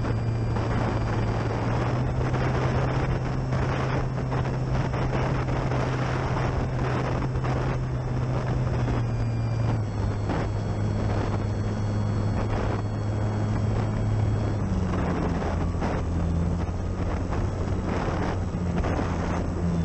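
Electric motor and propeller of a Durafly Tundra RC plane droning, its pitch stepping up and down a few times, with a faint high motor whine above. Gusty wind rushes over the microphone throughout.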